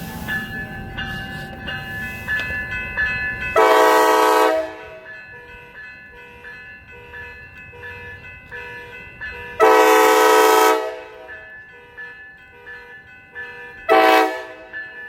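Train horn sounding two long blasts and a short one, the start of the long-long-short-long grade-crossing signal, with a steady ringing of a bell underneath.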